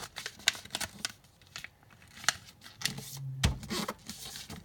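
A sheet of printer paper being handled, folded and creased, with a string of crisp rustles and crinkles and a low thump about three and a half seconds in.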